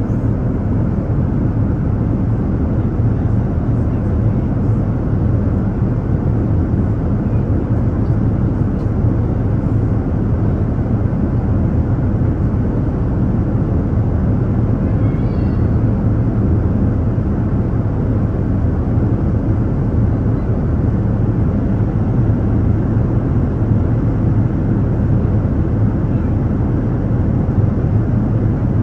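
Airliner cabin noise in flight: the steady, even roar of the engines and airflow heard from a window seat, deep and unchanging.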